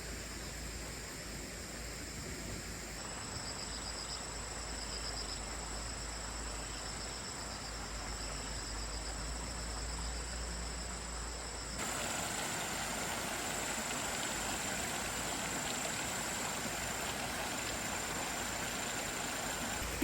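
Insects trilling and buzzing steadily, a high continuous whine with a pulsing trill over a background hiss. About twelve seconds in, the background changes abruptly to a fuller, steady hiss.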